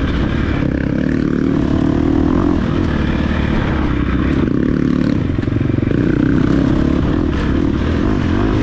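Dirt bike engine running hard off-road, the revs rising and falling as it is ridden, with some clatter and scraping from the bike over the terrain.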